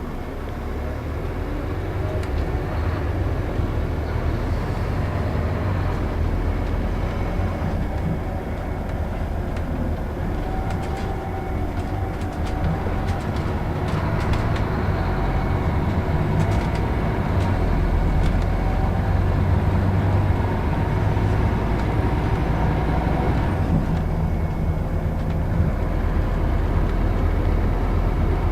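Scania Citywide LE 14.6 tri-axle city bus under way: its 320 hp diesel engine and ZF automatic gearbox running with road noise, growing gradually louder.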